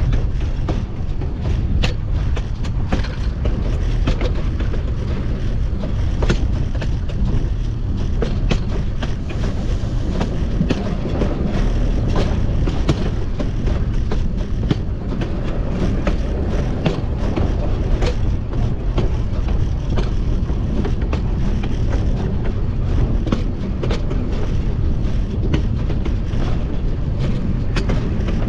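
Wheels of a narrow-gauge steam locomotive's pilot truck rolling on rail: a steady loud rumble with irregular clicks and clacks over the track.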